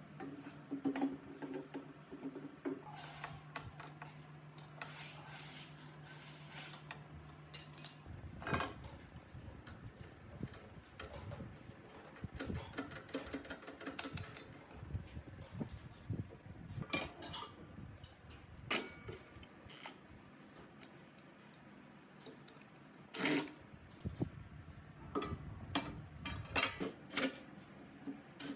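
Metal parts and hand tools clinking, tapping and knocking at irregular intervals, over a steady low hum that stops about eight seconds in.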